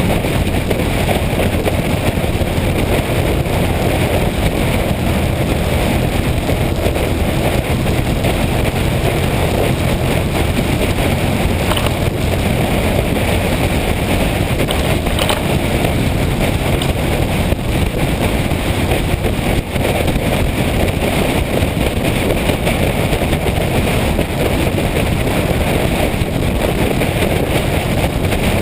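Motorcycle riding along at steady speed: the engine's low steady drone under loud wind rush on the microphone.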